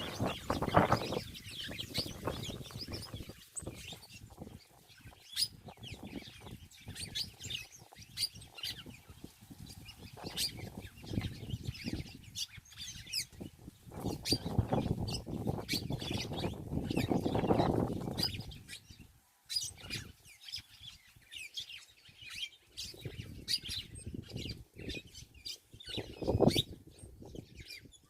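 Small birds chirping: many short, high chirps in quick succession. A few bursts of low rustling noise come and go, the longest in the middle.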